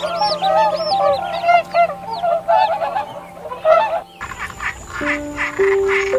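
Animal calls: a dense chorus of short, overlapping calls. About four seconds in it cuts abruptly to a different chorus of rapid pulsing calls over held, stepping musical notes.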